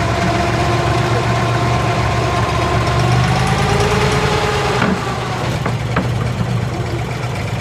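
Boat engine running with a steady low hum, dropping slightly in level about five seconds in. A few short knocks come after that.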